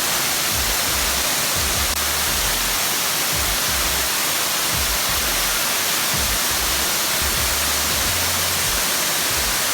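Waterfall pouring over rock: a steady, loud rush of falling water, with irregular low rumbles underneath.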